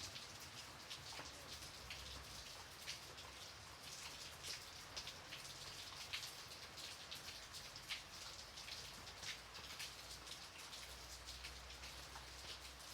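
Light rain falling steadily, a soft hiss with many separate drops pattering irregularly on a surface.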